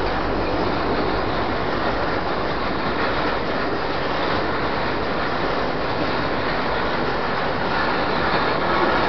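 Freight train of gas tank wagons rolling past close by: a steady, unbroken rumble and rush of steel wheels on the rails.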